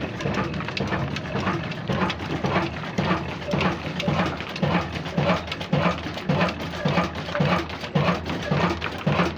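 New diesel engine running slowly with a regular knocking beat, about two beats a second.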